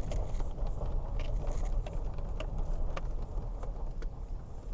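A 2008 Toyota Tacoma pickup's engine running at low speed as the truck pulls slowly onto a gravel spot, a steady low rumble heard from inside the cab. Scattered light clicks and knocks run through it.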